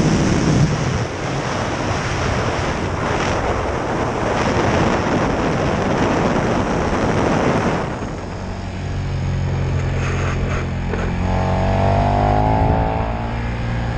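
KTM 1290 Super Duke R's V-twin engine under way, buried in a loud rush of wind noise on the onboard microphone. About eight seconds in the rush drops away and the engine settles to a steady low running note as the bike slows.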